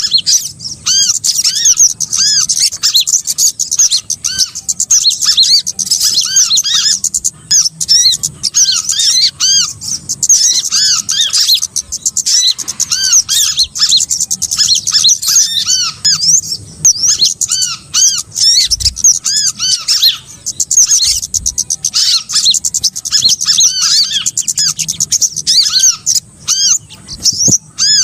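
Small birds calling: rapid, repeated high chirps and short arched notes, many overlapping, played as a bird-trapping lure call (suara pikat).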